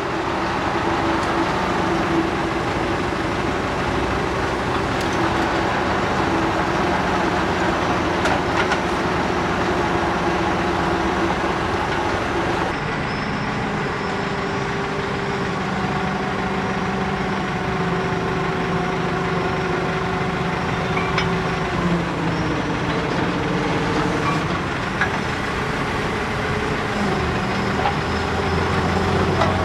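An engine running steadily, its speed shifting slightly about thirteen seconds in and again about twenty-two seconds in.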